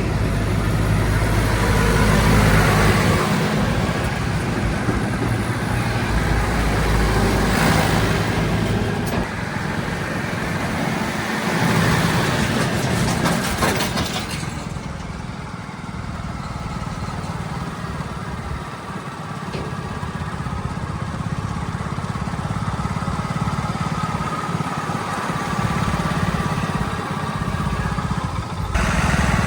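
Diesel engines of earthmoving machinery and trucks running at a mud-loading site, with a steady low engine hum. About halfway through the noisier working sound drops away, leaving the engines running more quietly.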